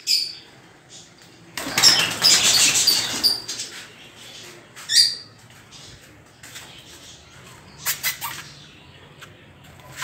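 A burst of bird wings flapping for about a second and a half, then short, high chirps from cage birds: one rising chirp near the middle and a couple more a few seconds later.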